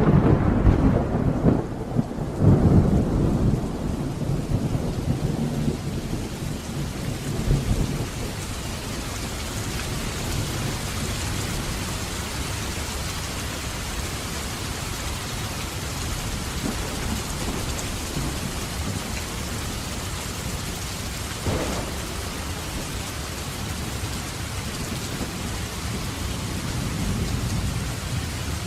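Thunderstorm: steady rain with a loud clap of thunder at the start, rumbling and rolling away over the first several seconds. The rain then goes on evenly, with one short burst of thunder about two-thirds of the way through.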